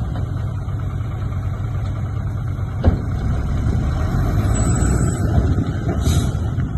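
Heavy diesel earthmoving machinery running with a steady low rumble, with one sharp knock about three seconds in.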